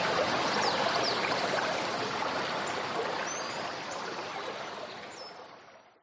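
Forest river flowing with a steady rushing of water, fading out over the last few seconds until it stops.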